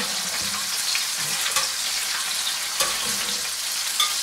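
Nutria offal sizzling steadily in olive oil in a cast-iron frying pan, with a metal spatula clicking against the pan a few times.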